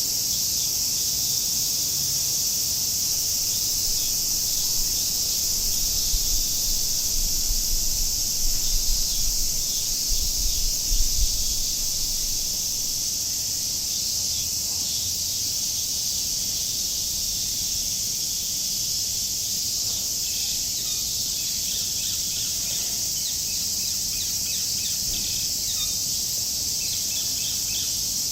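Cicadas singing in a steady, dense chorus, with bird chirps over it, more of them in the second half. A low rumble comes and goes between about five and twelve seconds in.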